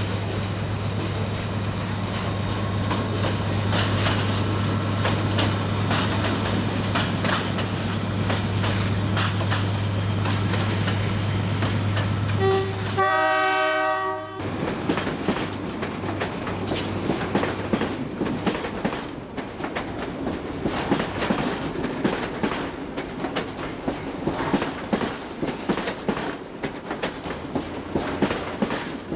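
A train running with a steady low hum, then a short horn blast about thirteen seconds in. After that, wheels clatter and click over the rail joints as carriages roll past.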